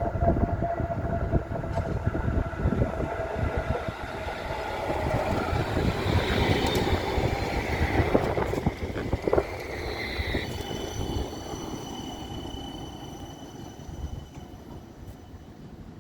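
Electric tram running on street track, its rumble mixed with the whine of its electric traction equipment. It grows louder to a peak about halfway through, then fades away.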